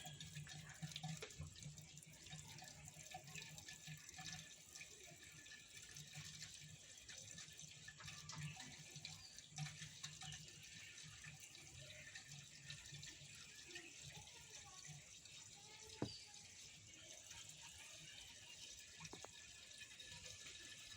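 Faint water pouring and trickling, as coolant water is topped up into an overheated tractor's radiator that has boiled dry. A single sharp knock comes about three-quarters of the way through.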